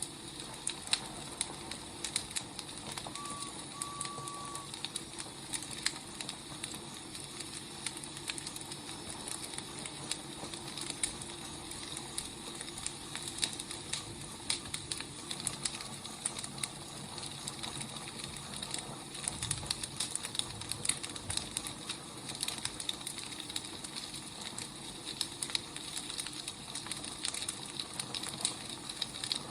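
Wood fire burning, with a steady hiss and irregular crackles and pops of burning logs. A brief high tone sounds twice about three to four seconds in, and there is a soft low thud around the twenty-second mark.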